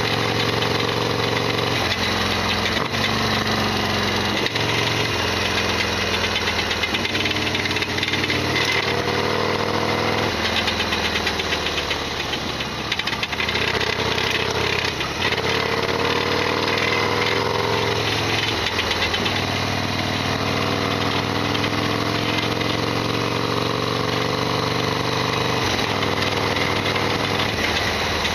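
Modified Harley-Davidson Sportster XL1200R's air-cooled 1200 cc V-twin running under way, its pitch climbing and dropping several times as the throttle is opened and closed. It carries a loud mechanical rattle and knocking clatter, the abnormal noise this bike is known for.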